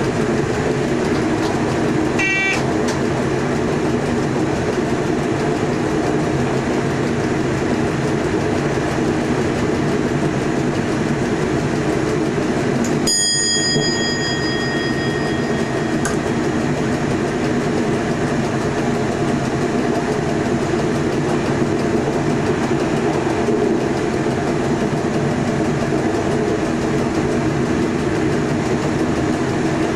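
Electric passenger train heard from the driver's cab running at speed, a steady rumble of wheels on the track. A short ding sounds about two seconds in, and about halfway through a cab bell rings once and fades over a few seconds: the in-cab bell that sounds when the train passes a signal at proceed.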